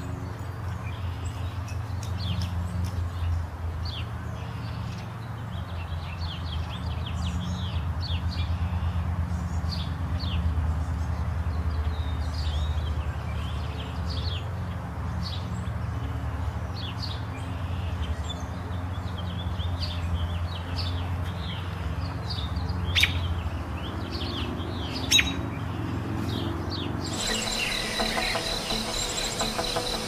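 Small birds chirping rapidly, many short high notes a second, over a steady low hum, with two sharp clicks in the last third. About three seconds before the end, music with long held tones comes in.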